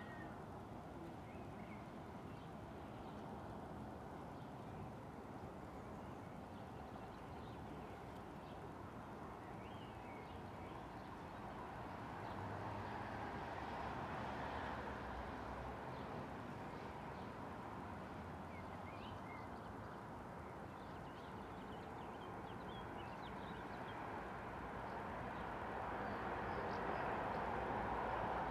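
Outdoor ambience: a steady rushing rumble that swells twice, as if something passes, with faint high chirps, likely birds, scattered through it.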